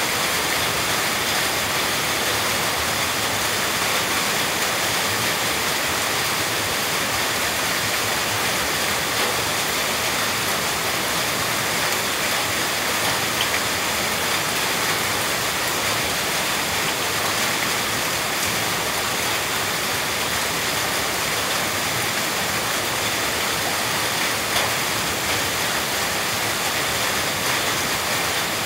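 Steady rushing noise of heavy rain, even and unbroken.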